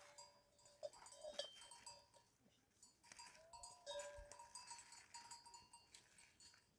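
Faint livestock bells ringing on and off, from grazing animals.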